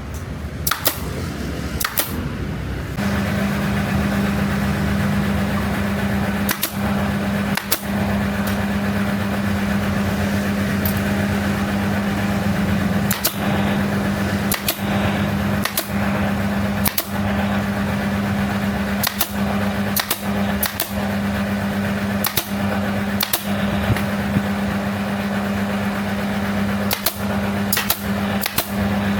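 A machine hums steadily, starting about three seconds in, while sharp snapping clicks come every second or so at uneven spacing.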